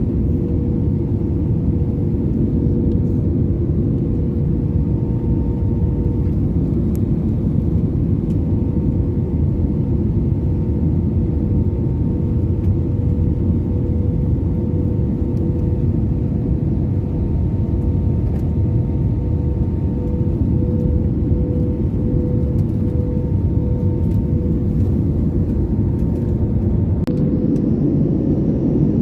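Aircraft drone: a steady low rumble with a constant hum tone, unchanging throughout.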